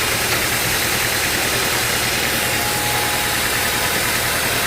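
Sawmill engine running steadily, with a constant low pulse under a wide, even hiss.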